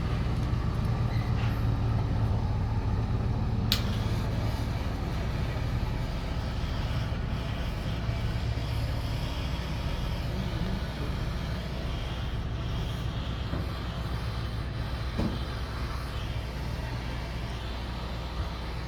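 An engine running steadily at a low, even pitch, with one sharp click about four seconds in.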